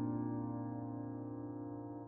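Soft background piano music: a held chord slowly dying away.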